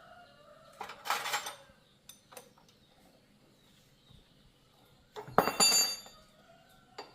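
Two short bursts of metal tools and parts clattering and clinking, about a second in and again a little after five seconds; the second is louder and rings.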